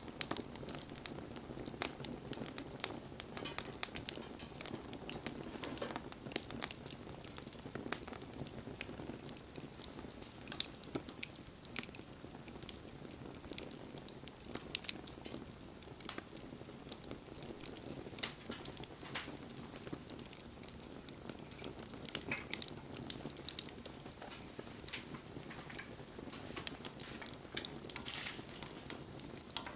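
Wood campfire burning, with irregular sharp crackles and pops from the burning wood over a low steady rush of flame.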